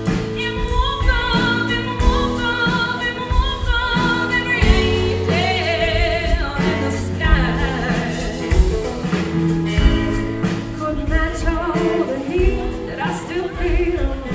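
Texas country song played live by a band, a woman singing lead over a steady drum beat.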